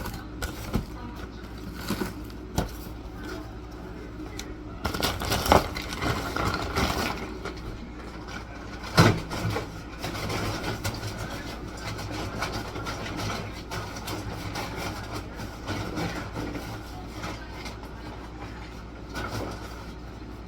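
Household objects knocking and clattering as they are handled and moved, over a steady low hum, with a busier patch of clatter around five to seven seconds in and one sharp knock about nine seconds in.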